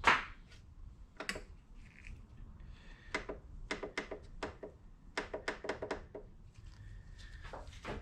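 Quick clicks and clinks of small metal steering-rack parts being handled and dropped into an ultrasonic cleaner's tank, in two brief clusters with a knock at the start.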